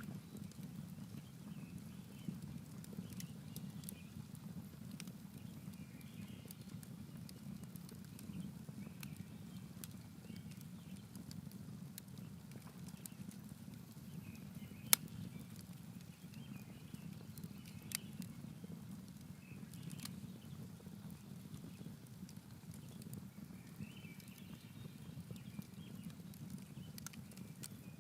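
Campfire crackling, with scattered sharp pops over a steady low rumble; one loud pop about halfway through and another a few seconds later.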